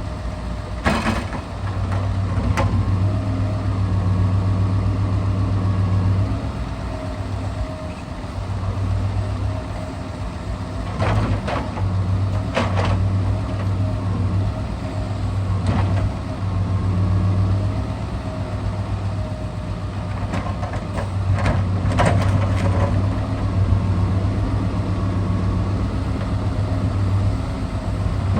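Scania R650 timber truck's V8 diesel running steadily, its engine note rising and falling in spells of a few seconds as the timber crane works. Several sharp knocks and clunks sound through it.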